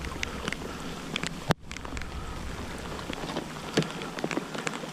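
Rain falling on the water and the kayak: a steady hiss dotted with scattered drip-like ticks, with a sharp knock about a second and a half in.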